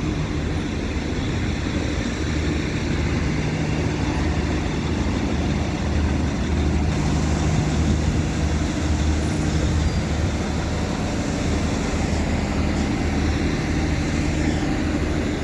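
Northern Ireland Railways 4000 class diesel multiple unit's underfloor diesel engines running with a steady low hum.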